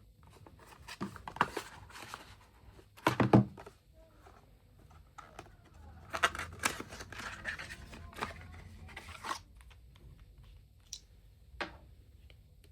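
Close-up household handling sounds: irregular rustling, tearing-like noise and scattered clicks. The loudest is a short burst about three seconds in, followed by a busier stretch of rustling and then a few lone clicks near the end.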